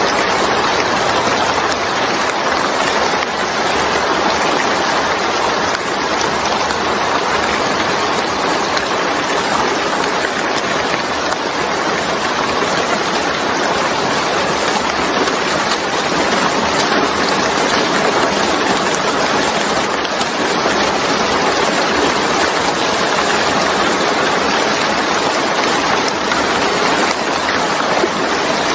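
Steady, heavy rainfall: an even hiss of rain falling without a break.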